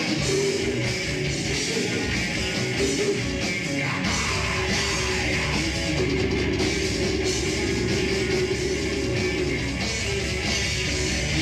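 A rock band playing loud live music with guitars and drums. The low end gets heavier about four seconds in.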